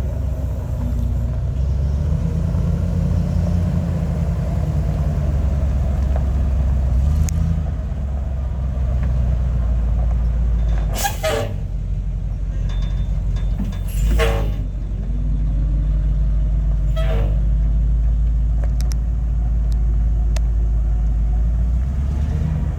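1994 Ford F700 flatbed truck's engine running with a steady low rumble. Three brief, sharp bursts cut in about 11, 14 and 17 seconds in.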